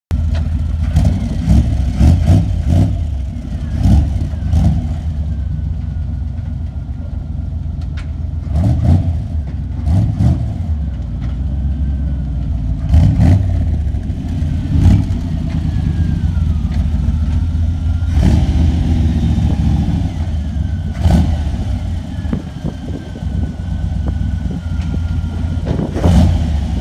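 Freshly rebuilt V8 engine of a Dax-built AC Cobra Mk3 replica running loud and steady, blipped up in short revs, several close together in the first few seconds and then one every few seconds.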